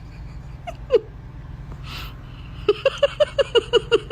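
A pet animal making a single short chirp about a second in, then a quick run of short, falling chirps, about seven a second, over a low steady hum.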